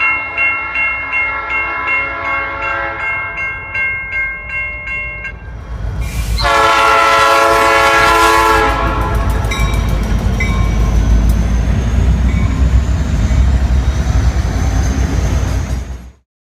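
Railroad crossing bell ringing in a steady rhythm while a train horn sounds, then a loud, close horn blast about six seconds in as the train reaches the crossing. The train then passes with a loud, steady rumble, and the sound cuts off suddenly near the end.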